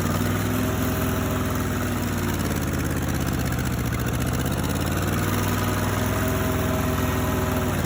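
Ford 8N tractor's four-cylinder gasoline engine running steadily, its pitch sagging and recovering a little a few times.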